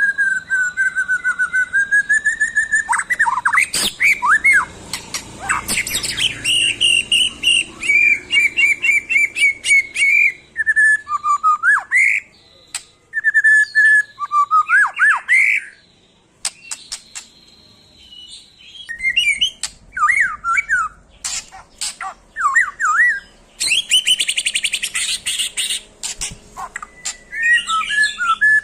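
White-rumped shama singing energetically: a varied song of clear whistles, fast runs of repeated notes and harsh chattering notes, with a short lull about two-thirds of the way through.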